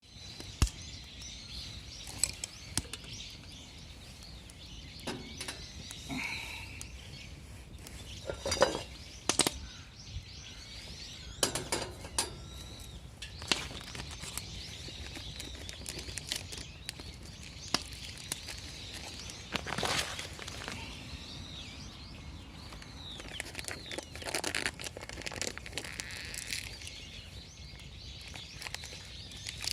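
Outdoor ambience with birds chirping now and then, and scattered sharp clicks and knocks.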